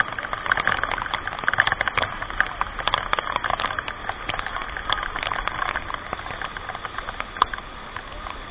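Flowing water rushing and splashing steadily, dense with small irregular splashes.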